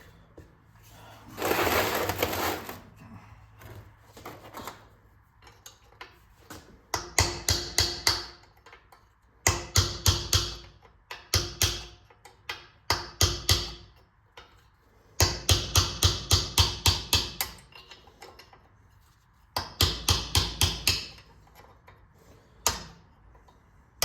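A hiss of about a second, like a burst from an aerosol lubricant can, then a ratchet wrench clicking in several short runs of quick clicks, about six a second, as fasteners are worked loose on a Clinton 410 small engine.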